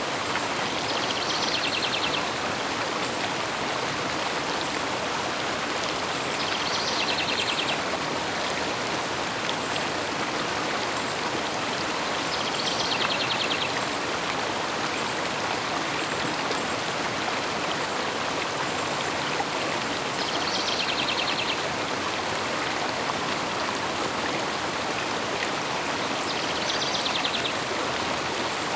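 River water flowing steadily, with a short, rapidly pulsed bird call repeating about every six seconds, five times in all.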